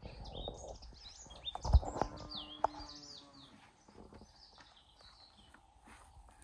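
Small birds chirping, a quick run of short downward-sliding notes that fades after about four seconds, with two sharp thumps a little under two and about two and a half seconds in.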